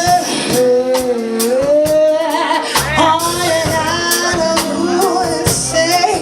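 Live band playing with a singer's voice over it: a sung melody with sliding, held notes over drums and backing instruments.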